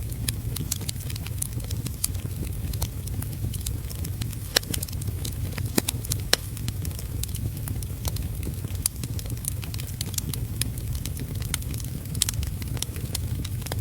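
Wood fire crackling in a fireplace, with frequent irregular sharp pops and snaps over a steady low rush, blended with heavy rain.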